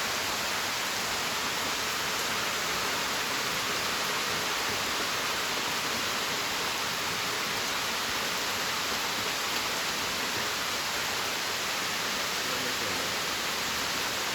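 Steady, unbroken rushing hiss of water.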